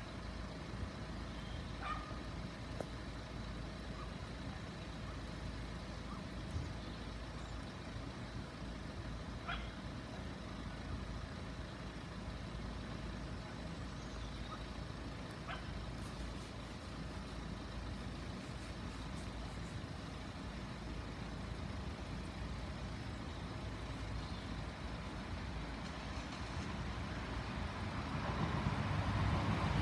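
A steady low outdoor rumble with a few short faint chirps. In the last few seconds a train can be heard approaching, growing steadily louder.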